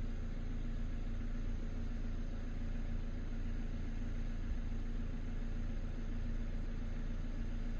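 A vehicle engine idling: a steady, even low hum with a constant drone, no changes or sudden sounds.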